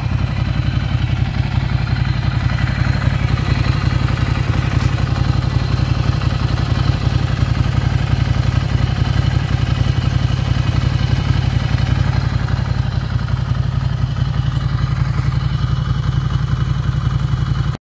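Ducati Scrambler's 803 cc air-cooled L-twin engine idling steadily, with an even pulsing beat and no revving. It cuts off abruptly near the end.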